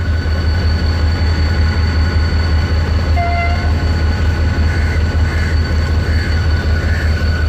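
Pakistan Railways express passenger train rolling past at close range: a steady heavy rumble with a thin, steady high whine over it and a brief tone about three seconds in.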